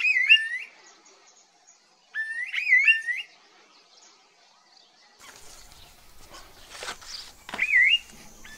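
Mount Victoria babax singing: a clear whistled phrase of rising and wavering notes, repeated three times with pauses between.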